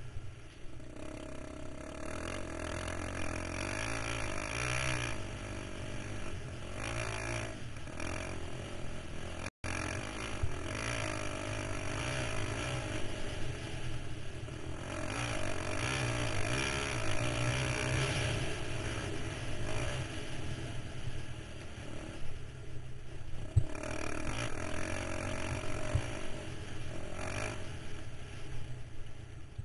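KTM 525 XC ATV's single-cylinder four-stroke engine running as the quad is ridden, its pitch rising and falling as the revs change. The sound cuts out for an instant about ten seconds in.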